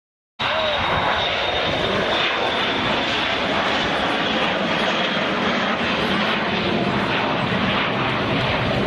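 Dassault Falcon 7X business jet's three turbofan engines running loud in flight, a steady roar with a thin high whine that sinks slowly in pitch. The sound cuts in abruptly just after the start.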